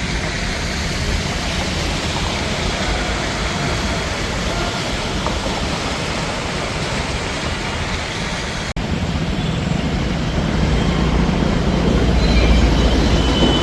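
Steady road traffic noise, vehicle engines running with a low rumble. About nine seconds in the sound cuts off for an instant and comes back with the low rumble louder.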